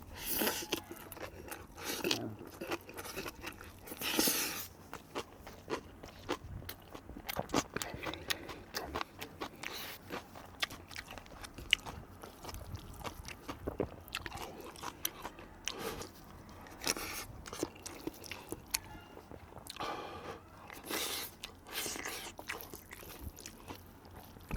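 Close-up eating sounds: a person chewing and biting food, with many short clicks and smacks and a few louder noisy bursts.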